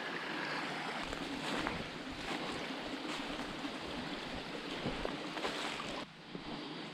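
Steady rushing of a mountain stream running heavy, with scattered light crackles and snaps over it; the level drops slightly about six seconds in.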